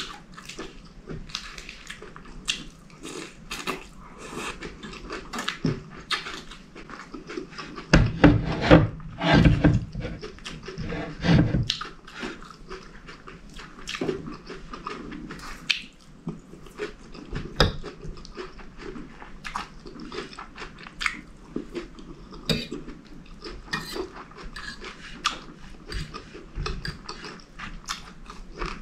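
Close-miked eating: chewing and biting of chicken curry, rice and lettuce, with short clicks of a metal fork against the plate and bowl. The chewing is loudest for a few seconds about a third of the way in.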